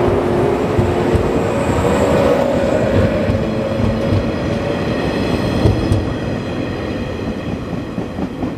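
Yellow JR West electric commuter train running past, its wheels knocking over rail joints under a steady whine. The sound fades toward the end as the last car goes by.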